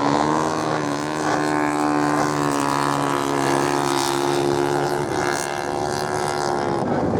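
Racing motorcycle engines held at high revs on a sand track, a steady droning note with several overlapping pitches that shift slightly about five seconds in.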